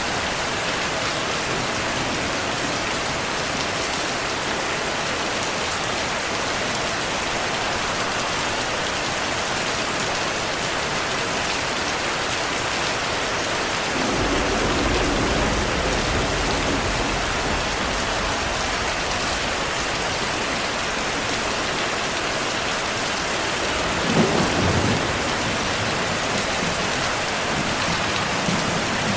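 Steady rain falling, with thunder rumbling twice: a low roll about halfway through that lasts a few seconds, and a second, briefer rumble with a sharper crack in it near the end.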